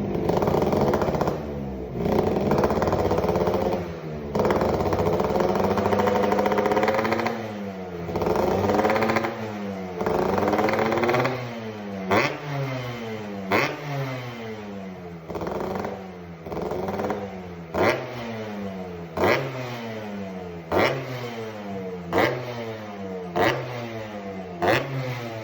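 Yamaha RX-King two-stroke single-cylinder engine with a hollowed-out (bobok) aftermarket muffler being revved. In the first half it is held up at high revs several times, each rise and fall a few seconds long. From about halfway there is a regular run of short throttle blips, about one every second and a half, each opening with a sharp crack before the revs fall away.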